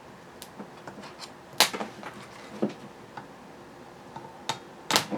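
A few sharp clicks and snaps as battery leads are touched and clamped onto a starter motor for a bench test, the loudest about a second and a half in and another near the end.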